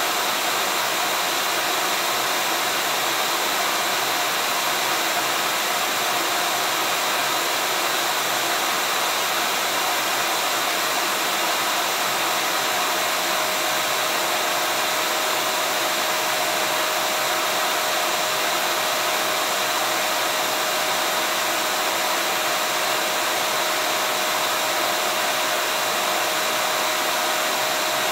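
Vacuum cleaner running steadily, a constant rush of air with a steady motor whine and no change in speed.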